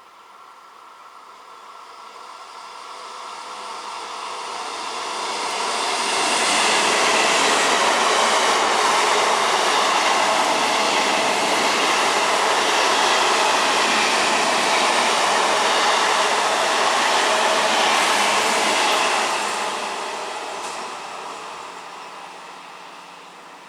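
A train approaching, passing at speed and receding: the noise builds over about six seconds, stays loud for about twelve seconds while the train goes by, then fades quickly.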